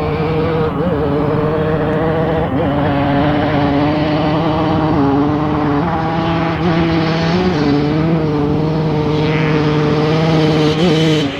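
Off-road racing motorcycle engine running loud at a steady engine speed, with small throttle blips every second or two and a slight drop in pitch about six seconds in.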